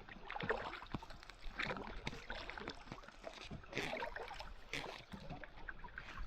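Kayak paddle strokes in water: irregular splashes and drips, a few louder ones among softer swishes.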